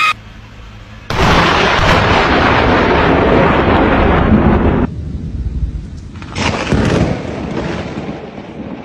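A close thunderclap cracks suddenly about a second in and rumbles loudly for several seconds before cutting off abruptly. A second peal of thunder breaks in about six seconds in and fades away.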